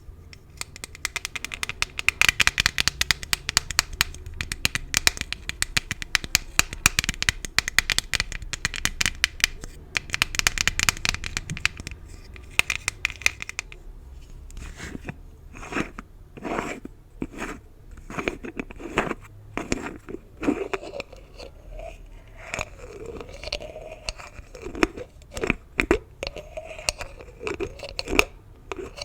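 Gift bows being handled: crinkling and scratching, with dense rapid crackling for about the first half, then slower, separate rubbing and scraping strokes.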